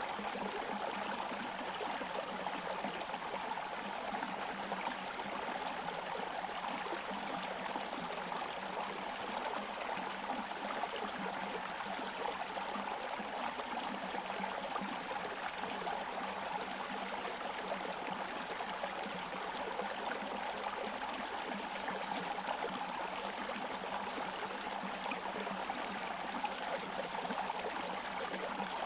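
Forest stream flowing steadily, water running and gurgling past partly frozen, icy banks.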